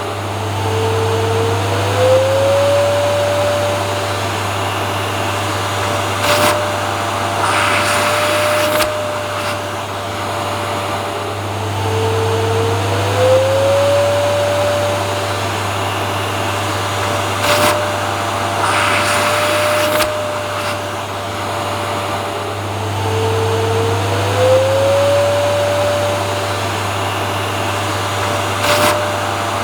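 Vacuum cleaner running steadily, a continuous whooshing noise over a low hum. Its motor whine rises in pitch and then holds, in a cycle that repeats about every eleven seconds.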